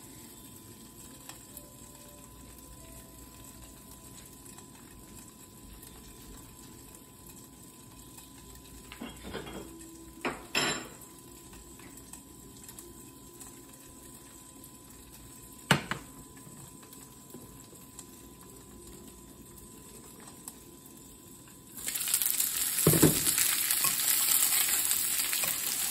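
Boiled pelmeni frying in butter and vegetable oil in a frying pan, first under a glass lid: a faint steady sizzle with a few light clicks. About 22 seconds in, the sizzle jumps suddenly louder as the pan is uncovered, and a wooden spatula stirs the dumplings through the hot fat near the end.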